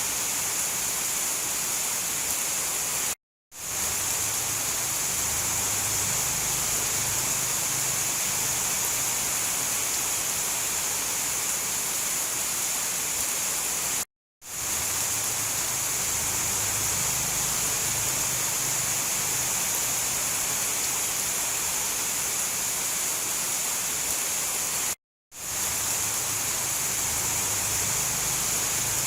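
Steady heavy rain, an even hiss strongest in the high range. It cuts out to silence briefly three times, about eleven seconds apart.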